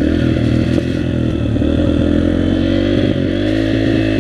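Dirt bike engine running at a steady, moderate throttle while being ridden, its pitch shifting slightly about three seconds in.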